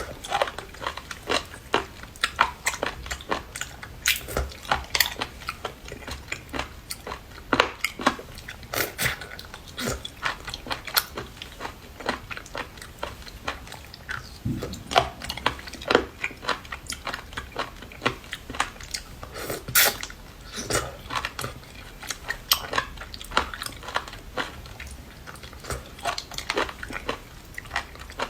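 A person biting and chewing seafood, with frequent irregular crunches and clicks several times a second.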